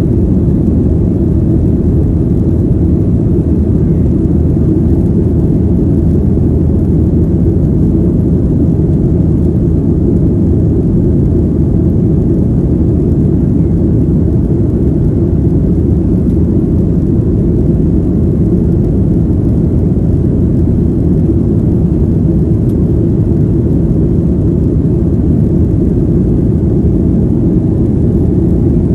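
Airliner cabin noise: the jet engines and airflow making a steady low rumble that does not change.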